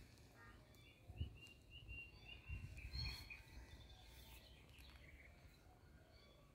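Faint background with small birds chirping in the distance, a string of short high notes in the first half, and a few soft low thumps.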